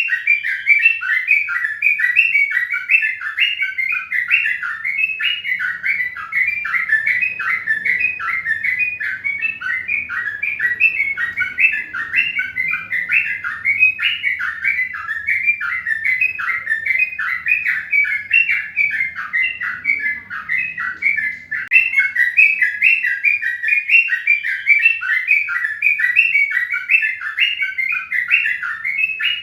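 Birds chirping rapidly and without pause, short falling chirps of about four or five a second.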